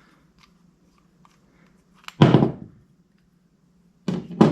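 Carburetor parts being handled on a workbench: faint small clicks, then one loud thunk about two seconds in and another short knock near the end.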